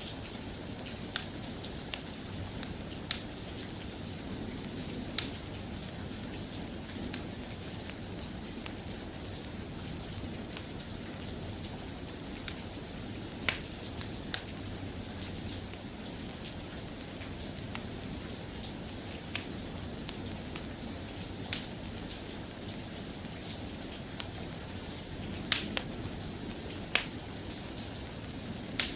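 Steady soft rain, an even hiss, with scattered sharp ticks every few seconds.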